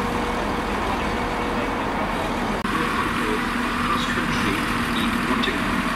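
Diesel multiple-unit train running as it approaches a station platform, a steady engine drone. About two and a half seconds in the sound cuts abruptly to a different steady rumble with a low hum.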